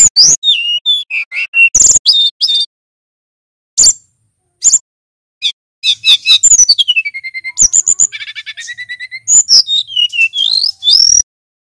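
Male brown-chested jungle flycatcher singing loud phrases of clear whistles, rapid trills and sliding notes, broken by short pauses; the song stops abruptly near the end.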